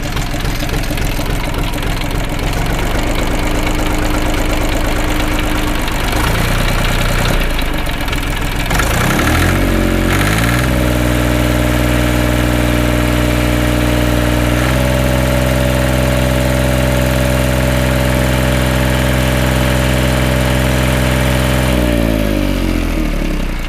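Three-cylinder mini-tractor diesel engine, freshly valve-adjusted and not yet warmed up, running at idle. About nine seconds in it is revved up, holds a steady higher speed, and drops back to idle near the end.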